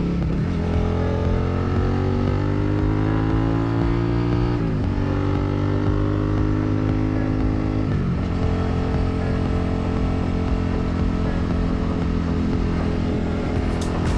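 Yamaha TW200's single-cylinder four-stroke engine pulling under acceleration, its pitch climbing then dropping sharply at an upshift about five seconds in and again about eight seconds in, then running steadily at cruising speed, with road and wind noise on the helmet microphone.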